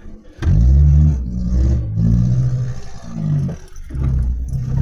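Vehicle engine revving in surges under load, starting about half a second in and rising and falling in pitch several times.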